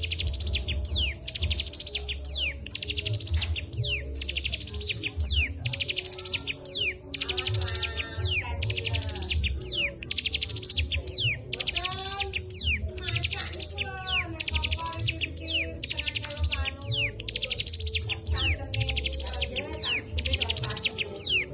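Caged songbird singing continuously: fast, repeated high chirping trills broken by sharp downward-sliding whistles, with a lower warbling phrase weaving in from about seven seconds in, over a steady low hum.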